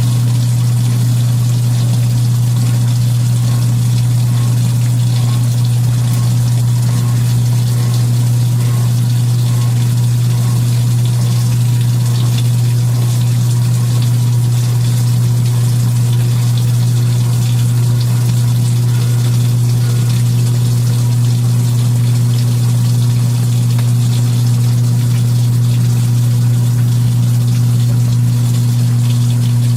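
Belt-drive Kenmore portable washing machine running mid-cycle: a loud, unbroken motor hum with water churning and pumping underneath.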